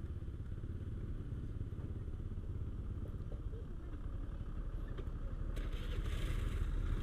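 Motorcycle running with a steady low rumble that grows slightly louder; a hiss joins it about five and a half seconds in.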